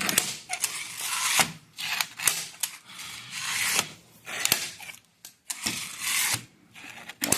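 Lumber and hand tools being handled: scattered sharp clicks and knocks with short scraping and sliding sounds of wood.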